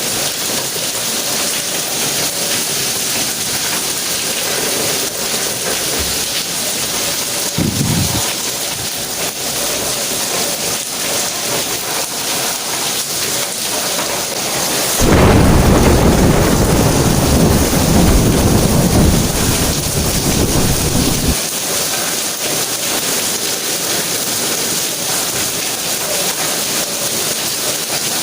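Steady heavy rain hissing on the ground throughout. A short low rumble of thunder comes about eight seconds in. Just past halfway a loud peal of thunder breaks suddenly and rolls for about six seconds before cutting off.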